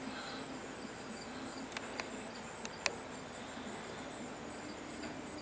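Steady high-pitched trill of insects, such as crickets, over a faint low hum. A few brief sharp clicks come about two to three seconds in.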